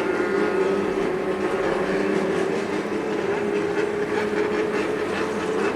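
Bosozoku gang motorcycles' engines running loud with a steady, droning engine note.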